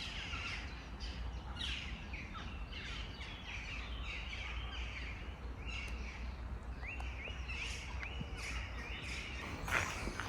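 Birds chirping outdoors in a run of many short, falling calls, over a steady low background rumble. A few louder, sharper sounds come near the end.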